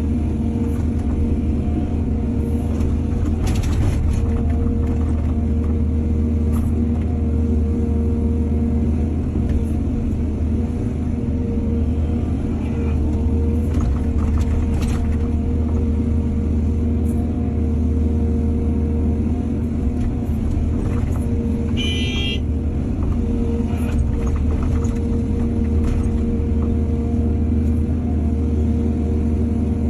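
Diesel engines of an excavator and dump truck running steadily at a constant pitch, with a few short clanks and a brief high squeal about three-quarters of the way through.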